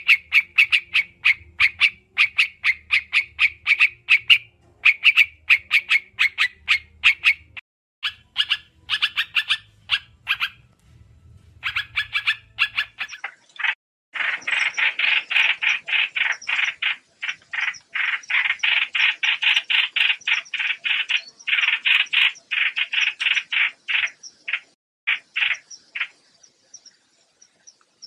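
A trao trảo bird calling in fast runs of short, sharp notes, several a second, with brief pauses between runs and a longer unbroken run from about halfway through.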